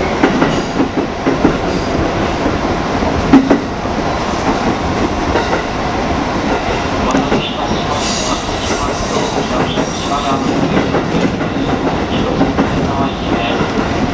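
JR 205 series 5000 commuter train running, heard from inside the car: a steady rumble with wheels clacking over rail joints. Several sharp knocks come in the first few seconds, the loudest about three seconds in.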